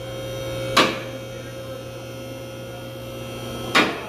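Electric car lift motor humming steadily as it raises the vehicle, with two sharp clacks about three seconds apart.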